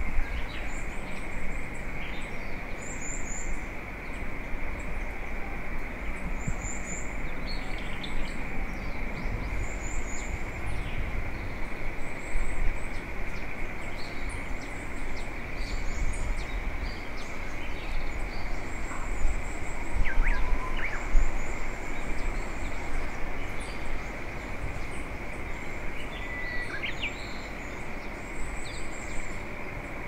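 Wild birds chirping and calling, short high calls scattered throughout, over a steady outdoor hiss and low rumble.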